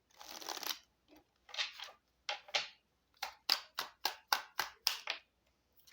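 A deck of Cigano (Lenormand) cards being shuffled by hand: a swish of cards, then a run of quick slaps of cards against the deck, about four a second.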